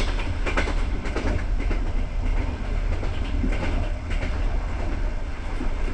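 Passenger train coach running along the track, heard from inside the coach: a steady low rumble with clusters of wheel clicks over the rail joints near the start and again a few seconds later.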